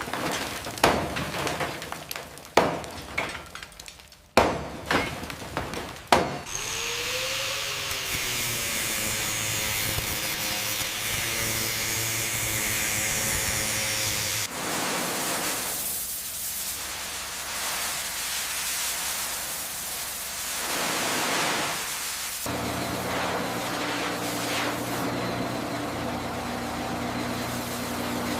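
Mechanical work sounds: a run of about six sharp knocks, then a long steady rasping noise, and near the end a steady machine hum with a low drone.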